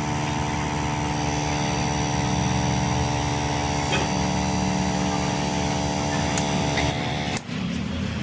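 A machine motor running with a steady hum that stops abruptly about seven seconds in.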